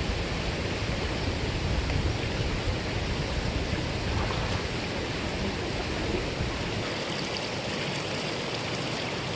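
Mountain stream rushing over rocks, a steady, even wash of water noise. A deep low rumble under it drops away about two-thirds of the way through.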